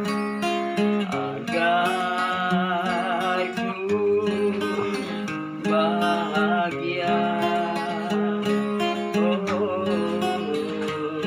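A busker's acoustic guitar playing the introduction of a song, with strummed and picked chords and a wavering melody line above them.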